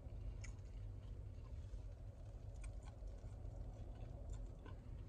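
Faint mouth sounds of chewing a chicken sandwich: a few scattered soft clicks and smacks over a low steady rumble in a car cabin.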